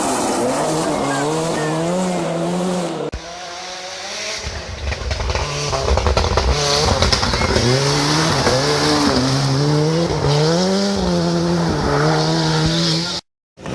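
Ford Sierra Cosworth Group A rally car's turbocharged four-cylinder engine at full throttle, revving up through the gears so the note repeatedly rises and then drops at each shift. The sound breaks off suddenly about three seconds in and again briefly near the end.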